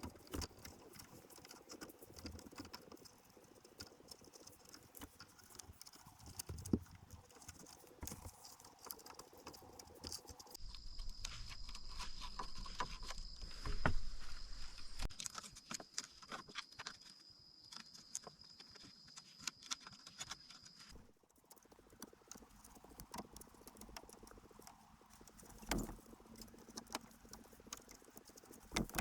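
Irregular light taps and clicks with a few louder knocks, like handwork on hard material. Through the middle third a steady high whine sits underneath.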